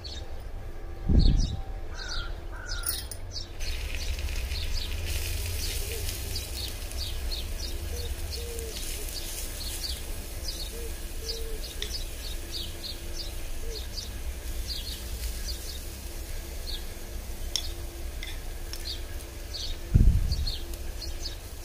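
Small birds chirping over and over in the background over a steady low rumble, with a dull thump about a second in and another near the end.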